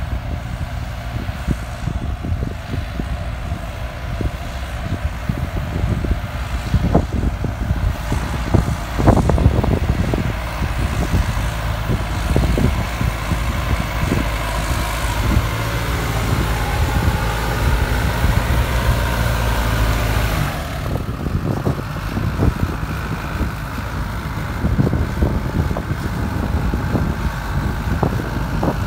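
Farm tractor's diesel engine running steadily, with scattered knocks and clanks; it works harder from about twelve seconds in and drops back suddenly about twenty seconds in.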